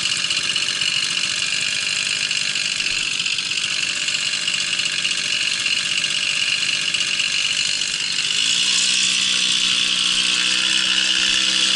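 A Babetta moped's small two-stroke single-cylinder engine running on the move, growing a little louder and steadier in pitch about eight seconds in.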